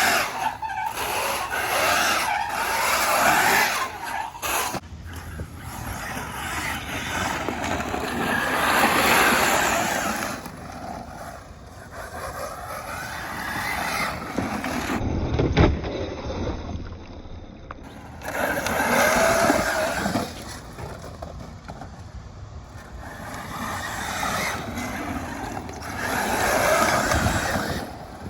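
6S brushless electric RC trucks running hard on dirt: the motors whine and the tyres scrabble, the sound swelling and fading over and over as the trucks speed past and turn.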